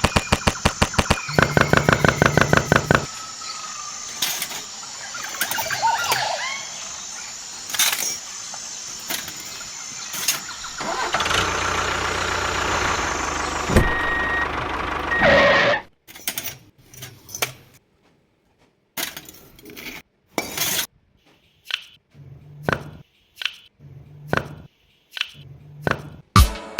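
A small engine or motor running in spells, with a rapid run of clicks over the first three seconds and a steady stretch in the middle that cuts off suddenly. The rest is short separate knocks and clicks with quiet gaps between them.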